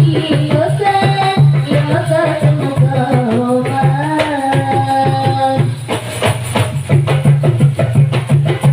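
Marawis ensemble: a sung melody over a steady hand-drum rhythm. The singing stops a little under six seconds in, and the drums play on alone.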